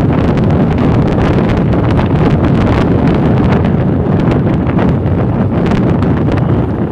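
Wind blowing across the microphone: a loud, steady low rumble with frequent crackles.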